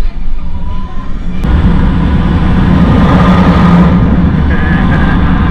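Sur Ron electric dirt bike under way at speed: motor, tyres and rushing air make a dense steady noise with a steady hum. It grows louder about a second and a half in as the bike picks up speed.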